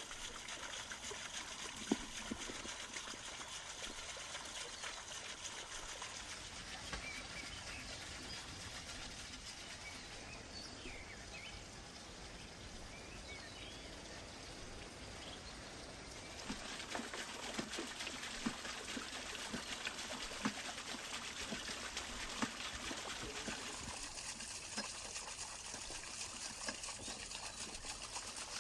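Water trickling and running steadily, with occasional small clicks and knocks; it grows a little louder just past halfway.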